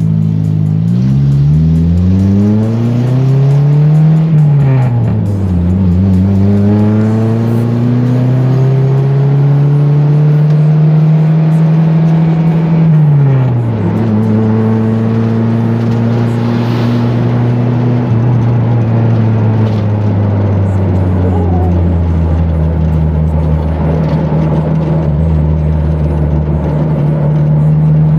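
Suzuki Forsa's engine heard from inside the cabin as the car accelerates hard through the gears. The pitch rises and drops sharply at gear changes about four and a half and thirteen and a half seconds in, then the engine runs at a steady pitch at cruising speed.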